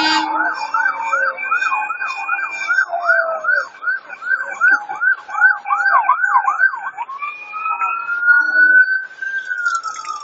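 Emergency vehicle siren sounding a fast yelp, about three sweeps a second, then switching about seven seconds in to a slow wail that rises and then falls.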